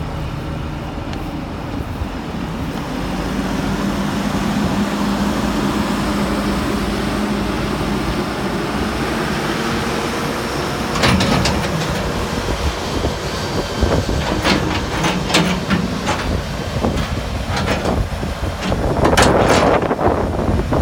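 A hydraulic track excavator's diesel engine runs steadily and picks up load about three seconds in. From about eleven seconds on, repeated sharp metallic clanks and squeals come from the machine working.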